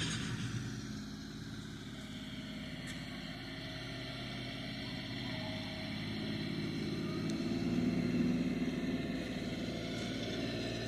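Tractor engine running steadily, growing louder toward the middle and easing off slightly near the end.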